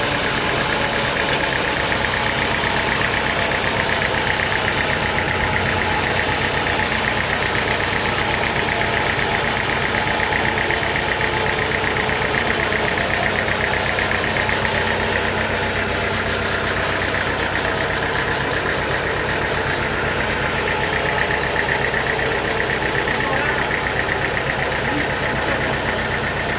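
Sawmill machinery running steadily: a continuous mechanical drone with a fast, even rattle.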